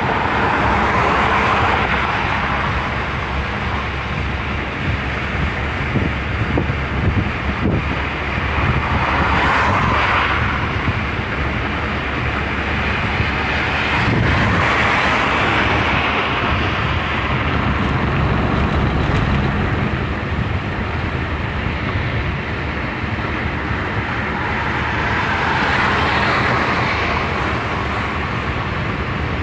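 Road noise of a moving car: a steady rush of tyres and wind, swelling and fading four times.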